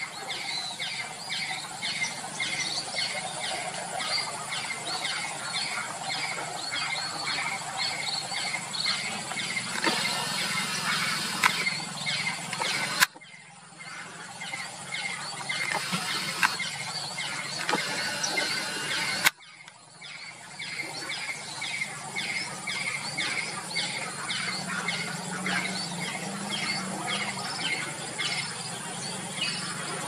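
Bird giving harsh, squealing calls over and over, about three short notes a second, with a steady high hiss behind; the calls break off abruptly twice and resume.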